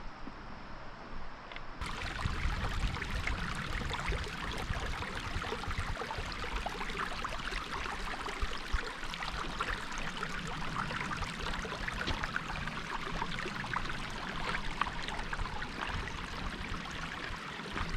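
Water of a mountain trout stream rushing and splashing steadily over rocks, getting suddenly louder about two seconds in.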